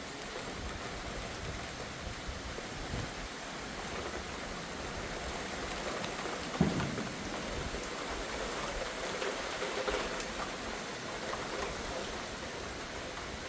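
Steady rain falling in a thunderstorm, with one short thump about halfway through.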